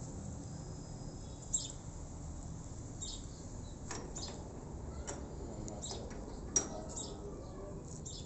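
Small birds chirping in short, high calls every second or so over a steady outdoor background noise, with a couple of sharp clicks, the loudest near the end.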